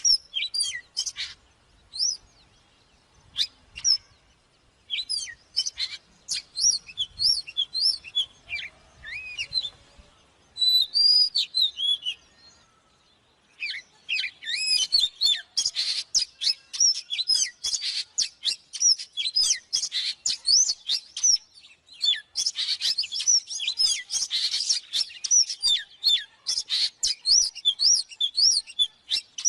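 Oriental magpie-robin singing a fast, varied run of whistled chirps and sweeping notes, with a couple of brief lulls and the densest singing in the second half.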